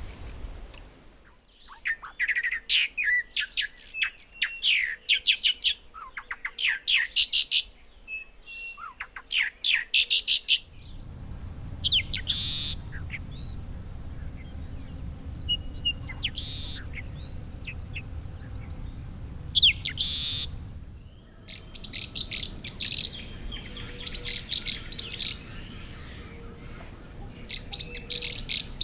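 Songs and calls of several Tumbesian scrub and dry-forest bird species, one recording after another: repeated phrases of quick, sharp chirping notes. The recording changes about a third of the way in and again about two-thirds in.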